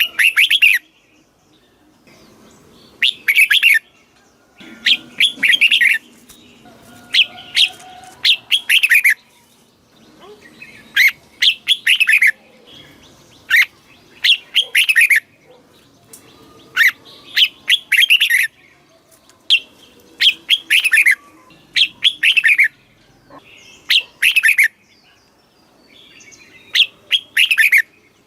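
Red-whiskered bulbul singing: short, loud phrases of quick, sweet chirping notes, repeated about every one and a half to two seconds.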